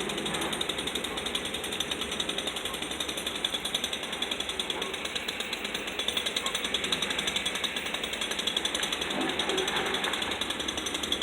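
Rapid, steady mechanical hammering from demolition work on the old bridge, like a jackhammer or hydraulic breaker running without pause.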